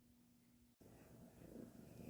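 Near silence, then, after a cut about a second in, a faint low purring from a pet cat.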